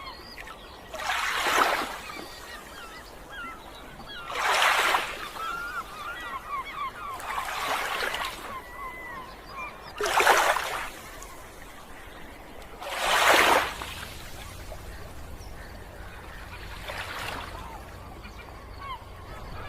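Sea waves washing onto the shore, each swelling and fading about every three seconds, with birds chirping between them.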